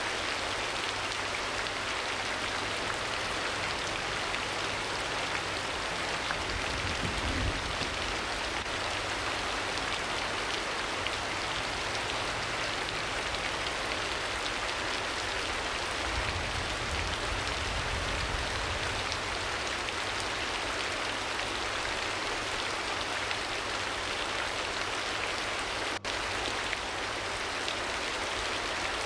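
Steady rain falling, an even dense hiss of drops, with a low rumble swelling briefly about seven seconds in and again around sixteen seconds.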